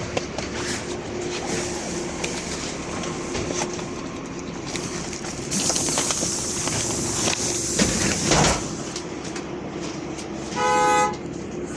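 Inside a LiAZ 5292.65 city bus: the engine hums steadily, a hiss of compressed air runs for about three seconds and ends in a clunk, like the pneumatic doors closing, and near the end a short electronic beep sounds for about half a second.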